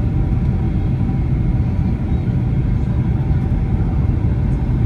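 Steady low rumble of engine and airflow noise inside the cabin of a Boeing 767-300 airliner, with faint steady tones above it.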